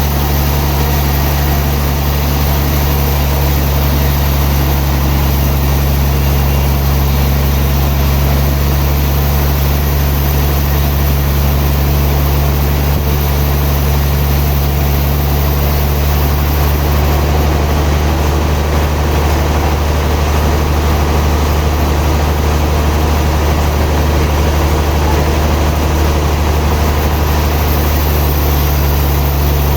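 Sawmill machinery running steadily with a loud, low, unchanging hum.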